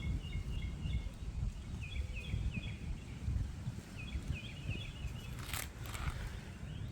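Small birds chirping in three short runs of quick repeated notes, over a steady low rumble, with one sharp click about five and a half seconds in.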